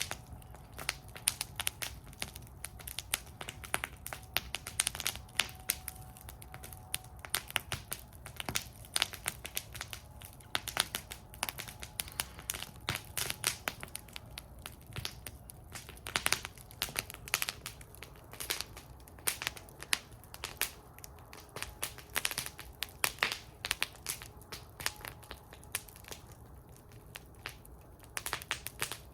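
Wood fire burning in a fire bowl, crackling with frequent irregular sharp pops and snaps over a low steady rumble of the flames.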